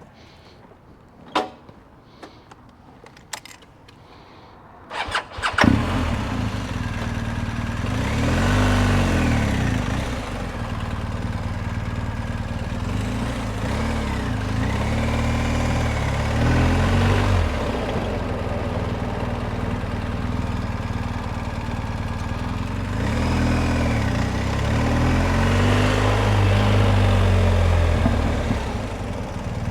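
BMW R 1250 GS boxer-twin motorcycle engine: a few clicks, then it starts about five seconds in and runs, its pitch rising and falling several times as the engine is revved and ridden at low speed.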